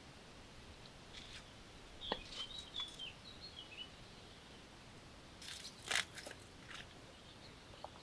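Bird chirping in short high notes, some stepping down in pitch, over a faint steady background. About five and a half seconds in comes a brief crackling crunch.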